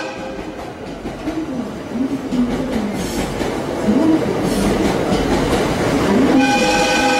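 Limited express electric train passing close by, its wheels clacking over the rail joints. About six seconds in, the train's loud air horn sounds a held, multi-tone blast that is still going at the end.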